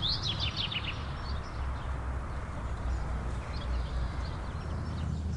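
A bird sings a quick run of short, high, downward-sliding chirps at the start, with a few faint chirps later, over a steady low background rumble.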